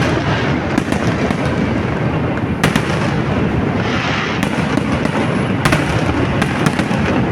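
Fireworks display going off continuously: a dense rumble of bursts with sharp cracks scattered throughout, a strong one under three seconds in and another near six seconds, and a crackling hiss about four seconds in.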